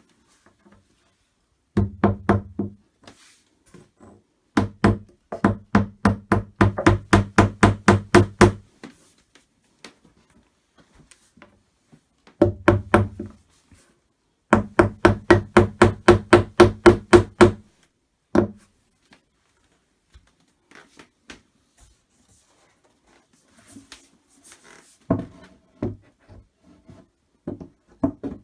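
A mallet knocking the wooden panels of a flat-pack IKEA cupboard onto their dowels: quick runs of strikes, about four a second, with pauses between the runs and a few lighter knocks and handling sounds near the end.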